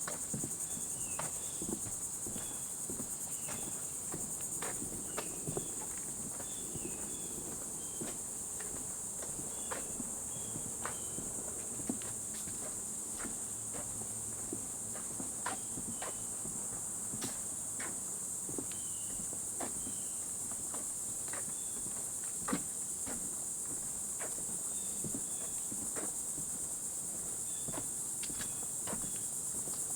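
Steady, high-pitched chorus of insects, with short high chirps scattered through it. Irregular footsteps on the trail sound over it.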